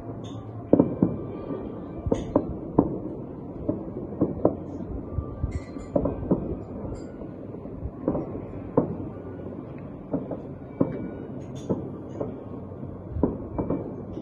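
Distant fireworks bursting: irregular bangs, roughly one or two a second, over a steady background hum.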